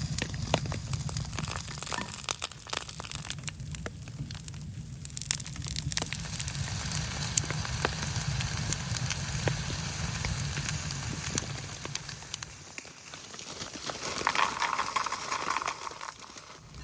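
Wood stove fire crackling with many irregular sharp ticks, over a steady low rumble, with sleet and wet snow pattering on the tarp overhead. A hissing swell rises briefly near the end.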